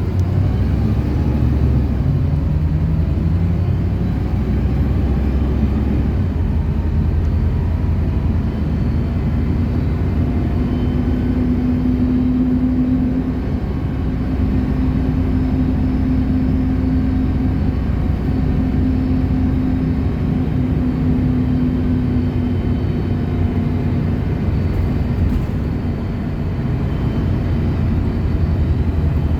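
Inside a city bus on the move: a steady low rumble of engine and road. A steady mid-pitched whine rides on top of it from about ten seconds in, lasting roughly twelve seconds.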